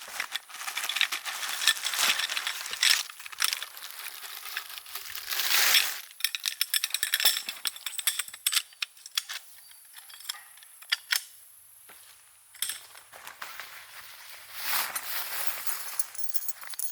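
Camping gear being handled: irregular rustling with many small, sharp clicks and light metallic clinks.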